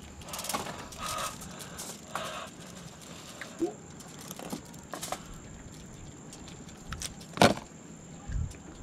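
Scattered small clicks, taps and brief rustles of objects being handled, with one sharper knock about seven and a half seconds in.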